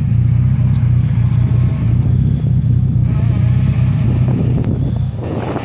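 Rally car engine running with a loud, steady low drone. Near the end its note climbs as it revs up.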